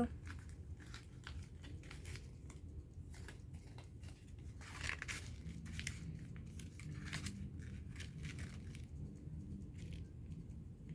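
Paper rustling and crinkling in short scattered bursts as craft paper is handled and worked by hand, a little louder around the middle.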